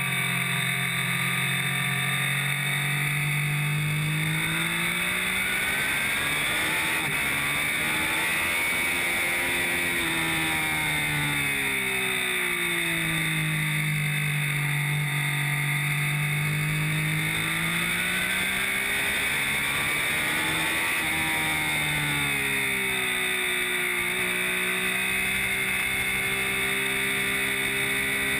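Triumph Street Triple R's three-cylinder engine at speed on a race track, its pitch rising twice as the rider accelerates and falling again as he slows for the bends.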